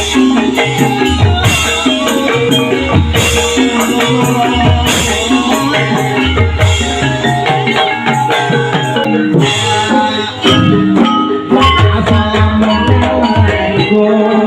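Javanese gamelan music of the kind that accompanies an ebeg horse-trance dance: struck pitched bars over drum beats and repeated cymbal-like crashes, with a brief drop in level about ten seconds in.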